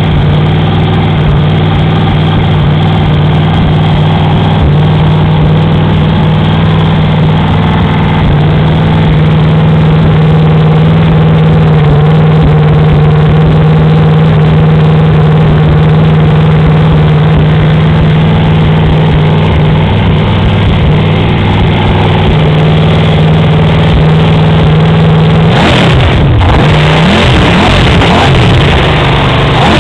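Ford 302 small-block V8 running steadily through Cherry Bomb turbo mufflers, then revved up and down a few times near the end.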